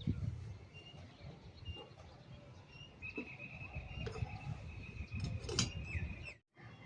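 Birds chirping in short calls, with one long, steady whistle-like note about three seconds in that lasts some three seconds and drops at its end. A low rumble runs underneath, and the sound cuts out briefly near the end.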